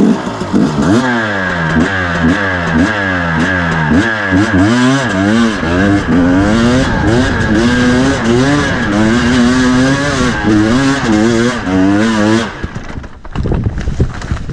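2017 KTM 250 EXC two-stroke single-cylinder dirt-bike engine revving hard, its pitch rising and falling quickly and again and again as the throttle is worked climbing a steep, slippery slope. The engine sound drops away suddenly near the end.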